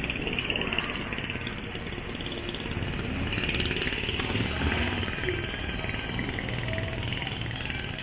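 Busy street traffic: vehicle and motorcycle engines running and passing, with a steady low rumble and voices in the background.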